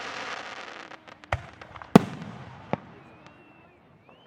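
Aerial fireworks: a dense crackling hiss for about the first second, then two sharp bangs about half a second apart, the second the loudest, and a smaller pop after them.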